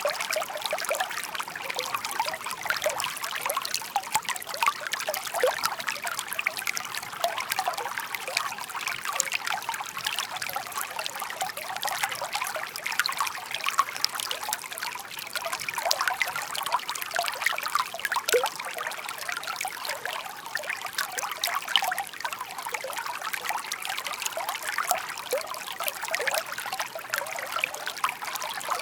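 Shallow stream murmuring and trickling steadily over stones, with a constant patter of small splashes and bubbles.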